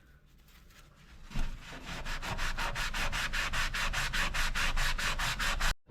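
Hand scrubbing of baked-on grease inside a toaster oven: after a quiet start, fast, even back-and-forth rubbing strokes, several a second, that cut off suddenly near the end.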